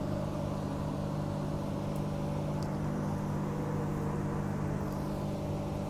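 Steady hum of a Walkers Limited A-series electric train's onboard equipment, several unchanging low tones over a low rumble, heard inside the carriage while the train stands at a station.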